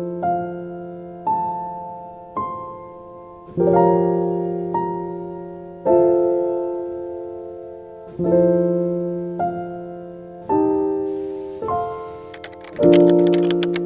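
Slow, gentle piano music: single notes and chords struck about every one to two seconds, each left to ring and fade. Near the end a run of sharp clicks comes in over the piano.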